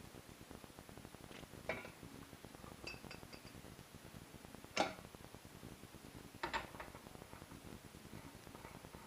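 Kitchen dishes and utensils clinking and knocking during food preparation: a handful of separate knocks, the loudest just before the halfway point, and a brief high ringing clink around three seconds in.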